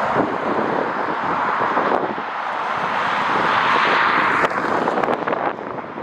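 Strong gusting wind rushing and buffeting the microphone with irregular low rumbles. The rush swells to a peak about four seconds in and then eases, with a few sharp knocks near the end.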